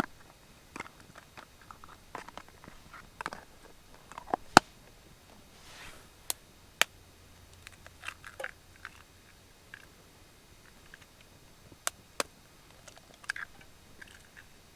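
Close-up eating: biting and chewing a sausage sandwich, with scattered sharp clicks and small knocks, a few of them louder.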